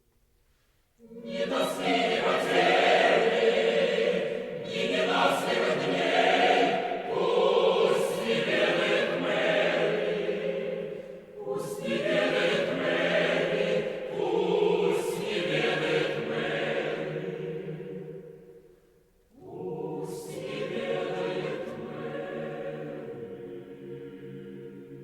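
Choir singing long sustained phrases in several voice parts, with sharp sibilant consonants. The singing comes in about a second in, breaks off briefly about 19 s in, then resumes with a held chord that fades.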